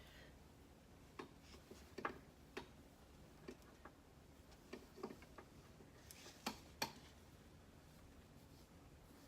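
Faint, irregular small clicks and taps, about a dozen spread over several seconds with the two sharpest close together near the end, from handling a curling wand while curling a section of hair.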